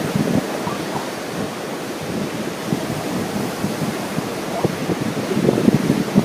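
Wind buffeting the microphone in gusts over the steady wash of ocean surf; the gusts ease slightly in the middle and pick up again near the end.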